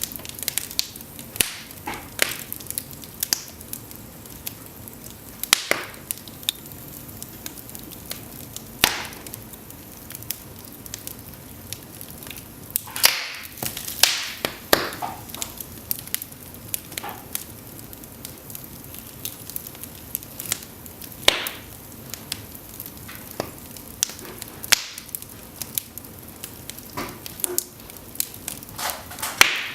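Cedar logs burning in an open fireplace: irregular crackling and sharp pops over a steady hiss, with a few louder snaps scattered through.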